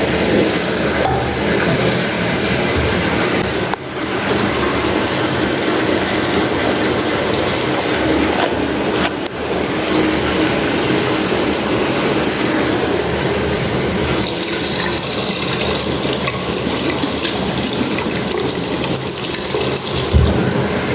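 Bathtub tap running hard, filling the tub with hot water for a bubble bath, a steady loud gush.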